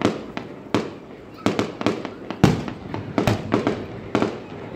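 Aerial firework shells bursting in quick, irregular succession: sharp bangs several times a second, the loudest about halfway through.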